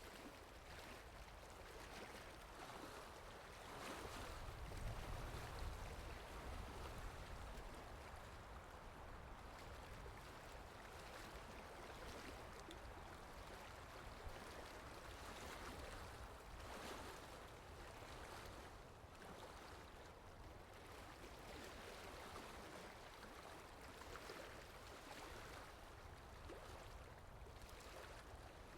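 Faint, steady rain. A low rumble swells briefly about four to seven seconds in.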